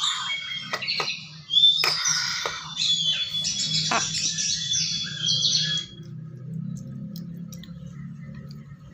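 A bird chirping and squawking in quick, high calls, then dropping to faint about six seconds in. A few sharp clicks come through, over a low steady hum.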